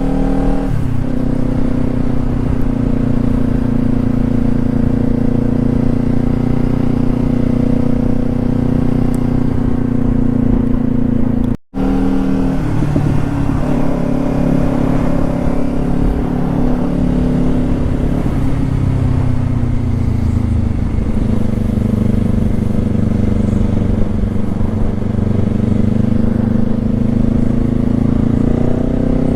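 Motorcycle engine running under way: a steady drone whose pitch shifts with throttle and gear changes, sliding lower about two thirds of the way through and rising again near the end. The sound cuts out completely for a moment a little before halfway.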